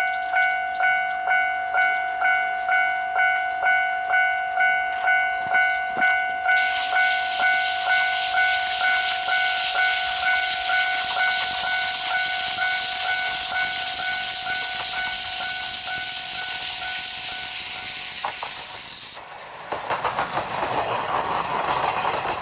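Japanese level-crossing warning bell ringing in a steady rhythm, about two to three dings a second. About six seconds in, a loud steady hiss of steam from the approaching C12 66 tank steam locomotive rises over the bell and cuts off abruptly near the end, giving way to the rougher rumble and beats of the passing train.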